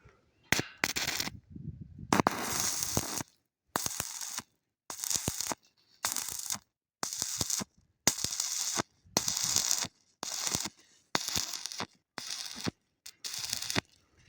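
Electric arc welding in short bursts: about a dozen crackling sizzles, each under a second long, with short pauses between them.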